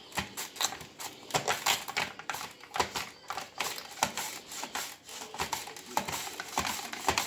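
Potatoes being sliced on a plastic Tupperware mandoline: a quick, irregular run of clacks and scrapes, several a second, as the holder pushes the potato back and forth across the blade.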